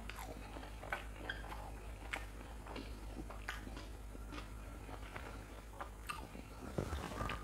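Close-miked chewing of a mouthful of crunchy fried food, with soft crunches and small wet mouth clicks scattered through. A louder low thump comes near the end.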